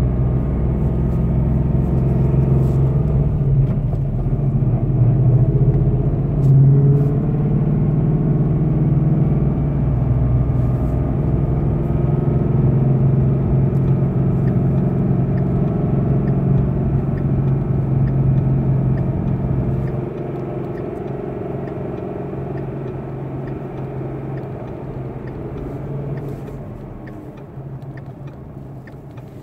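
Car engine running, heard from inside the cabin: a steady low drone that drops in level about two-thirds of the way through and eases off further near the end.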